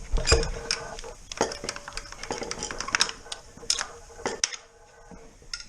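Metal engine parts and hand tools clinking and knocking irregularly while a part is worked free of the engine, with a faint ringing tone under the clicks.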